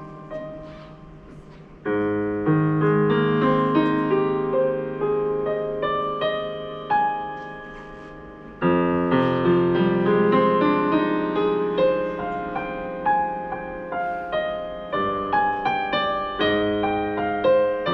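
Solo piano playing a slow prelude: broad sustained chords struck about two seconds in and again near the middle, each left to ring and fade under a moving line of higher notes.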